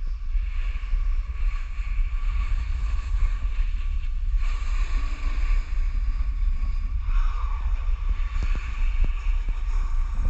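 Heavy wind buffeting the camera microphone: a steady low rumble with a fainter hiss above it.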